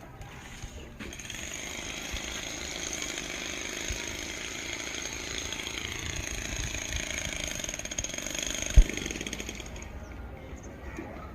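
Steady mechanical noise from machinery running, picked up by a phone microphone, with one sharp loud thump near the end.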